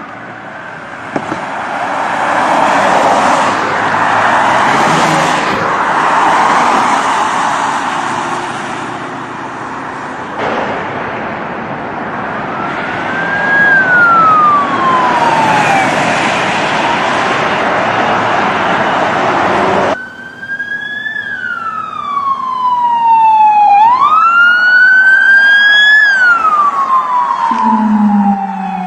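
Police car siren wailing in slow rising and falling sweeps. For the first two-thirds it sits under a loud rushing noise of road and wind, with abrupt cuts between shots. In the last third the siren sounds clear and loud on its own.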